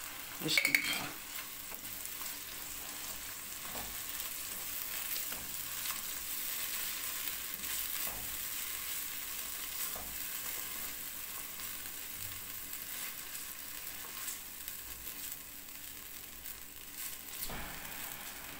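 Onions, cashews and tomato purée sizzling in oil in a nonstick kadhai while a silicone spatula stirs and scrapes them around the pan. A brief clatter comes about half a second in, as the purée goes in from a metal spoon.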